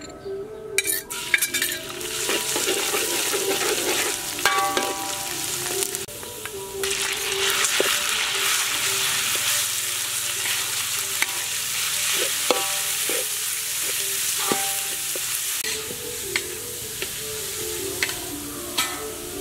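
Chopped garlic frying in soybean oil in a wok, a steady hiss of sizzling, with a metal ladle scraping and clicking against the wok as it is stirred. The sizzle dips briefly and comes back strong about seven seconds in, as ground pork frying in the oil is stirred.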